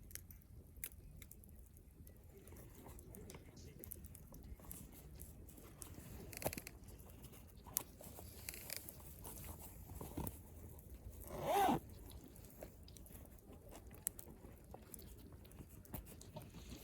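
Wood campfire crackling: scattered sharp pops and snaps over a low, faint background. About two-thirds of the way in comes one louder, brief sound with a wavering pitch.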